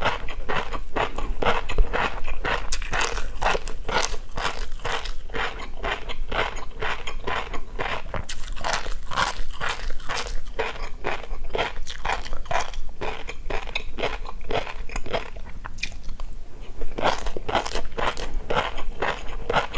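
Close-miked chewing of tobiko (flying fish roe) and crunchy seafood topping: dense, rapid crackly pops and crunches, easing briefly about three-quarters of the way through.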